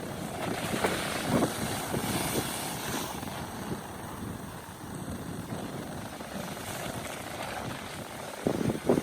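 Ocean surf breaking and washing against volcanic rock, a steady rushing noise with a surge about a second in. Gusts of wind buffet the microphone with low thuds, loudest near the end.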